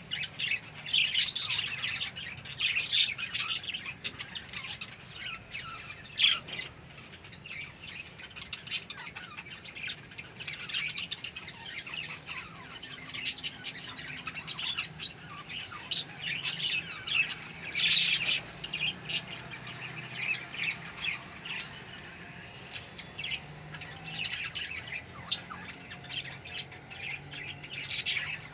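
Budgerigars chirping and squawking: many short, rapid calls, busier in a few spells.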